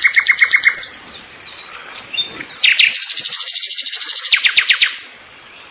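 Small birds singing: a fast trill of rapidly repeated high notes that stops about a second in, a few scattered short calls, then another long rapid trill from about two and a half to five seconds in.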